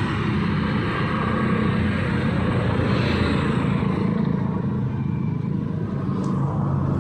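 City street traffic: a steady drone of idling and running engines, with vehicles passing close by. One pass swells and fades about three seconds in.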